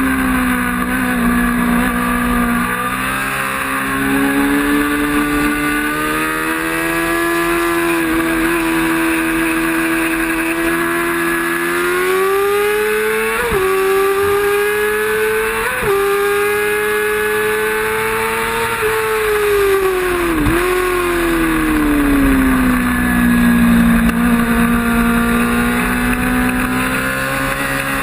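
Racing motorcycle engine running hard, its pitch sinking and climbing with the throttle, broken by a few brief sharp jumps in pitch.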